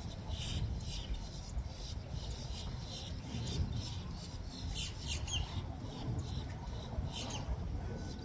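Wind rumbling on the microphone, with steady outdoor noise from the power plant and road beneath it. Over it, high-pitched insect chirping repeats a few times a second.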